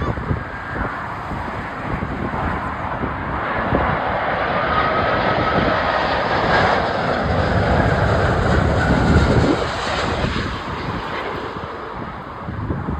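Japan Airlines jet airliner's engines sounding, a broad rumble that swells to a peak about nine seconds in and then eases, with a faint whine in the middle, and wind buffeting the microphone.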